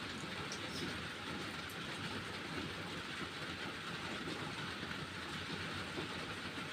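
Steady rain falling, an even rushing patter with no change in strength.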